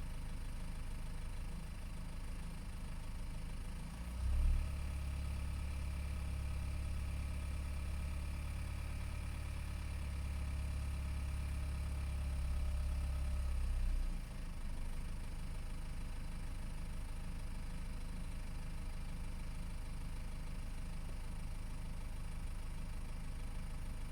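BMW 520d E60's four-cylinder diesel idling steadily with a strange ringing noise. The ringing is loudest near the oil pan where the automatic gearbox meets the engine, and the owner suspects the balance shafts, torque converter or flywheel. From about four seconds in, after a short jolt, a much heavier low hum and a faint high ring join for about ten seconds, then drop back to the plain idle.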